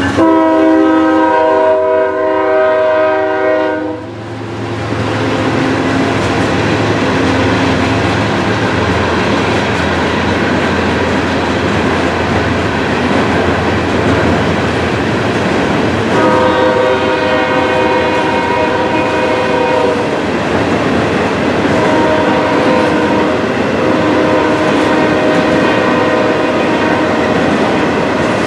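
Diesel freight train passing close by: a multi-tone locomotive horn chord blows for about four seconds at the start, then cuts off, leaving the steady rumble and clatter of freight cars rolling past on the rails. The horn sounds again, fainter, about midway through and once more toward the end.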